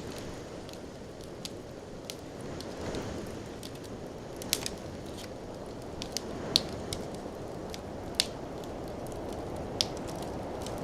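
Wood fire burning in a fireplace: a steady low rush of flames with irregular sharp crackles and pops, the loudest about two-thirds of the way through.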